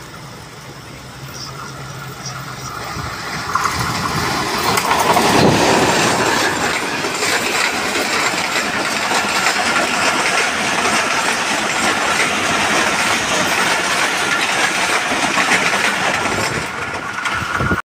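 Train running on the rails: a rushing of wheels and wind that builds over the first four seconds or so, then holds steady and loud.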